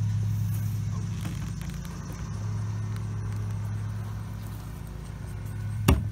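Steady low hum of an idling vehicle engine, with one sharp knock against the wooden crate near the end.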